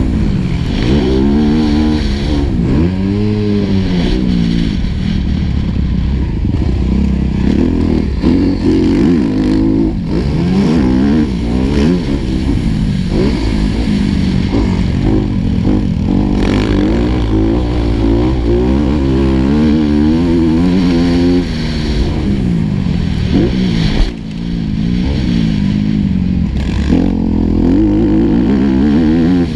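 Four-stroke motocross bike engine heard on board, revving up and falling back over and over as the throttle is worked through gears around a track. The level drops suddenly and briefly about 24 seconds in.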